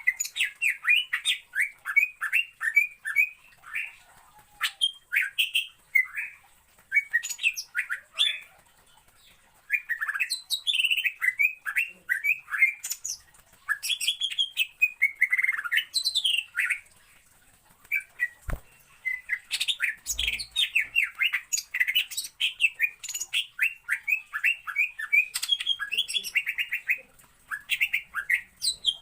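Cucak ijo (green leafbird) singing in fast phrases of quick, varied chirps, each phrase lasting a second or two with short pauses between.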